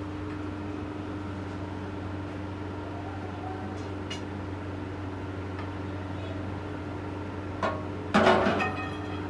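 Steady machine hum holding a constant low pitch. A short knock comes near the end, then a louder clatter about half a second later.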